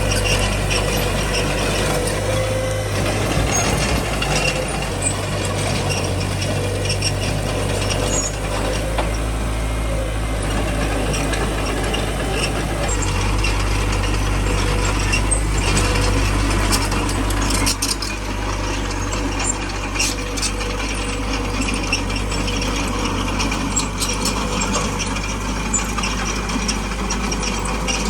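Small crawler bulldozer at work: its diesel engine runs steadily under a dense clanking and rattling of tracks and running gear, with scattered sharp knocks, more of them in the second half.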